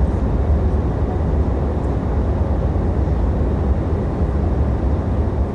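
Interior of a passenger airliner in level flight: the steady, deep rumble of engine and airflow noise filling the cabin.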